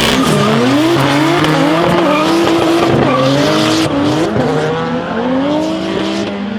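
Toyota 2JZ-GTE turbocharged inline-six revving up and down through a drift, heard from inside the car, its pitch rising and falling several times, with tyre squeal underneath.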